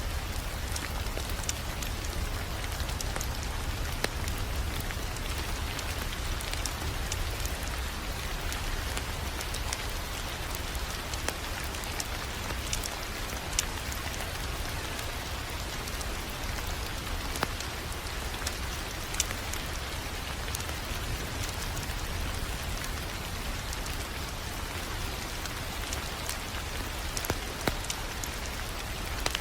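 Wood fire crackling: a steady hiss and low rumble with frequent sharp, irregular pops.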